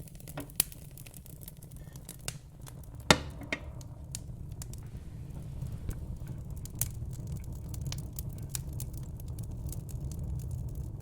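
Fire crackling: scattered small pops and snaps over a low, steady rumble, with one loud snap about three seconds in.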